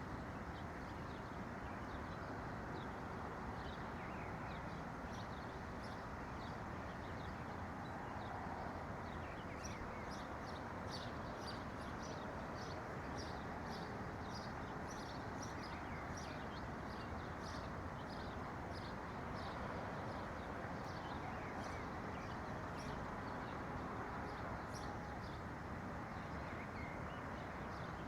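Small birds chirping in quick, short high notes, sparse at first and then in a dense run through the middle, over a steady low background hiss.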